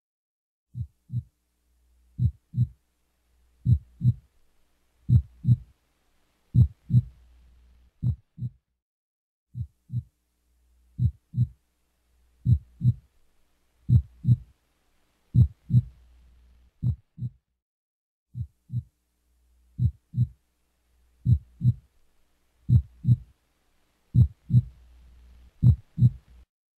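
Heartbeat sound effect: pairs of short low thumps, lub-dub, repeating evenly about every second and a half, with a faint low hum between some of the beats.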